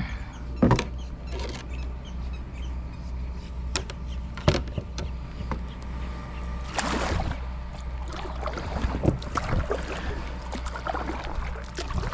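Kayak moving on the water: scattered knocks against the hull and a few water swishes, the biggest about seven seconds in, over a steady low hum.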